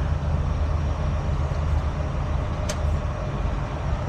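Heavy diesel truck engine idling steadily, with one short sharp click about two and a half seconds in.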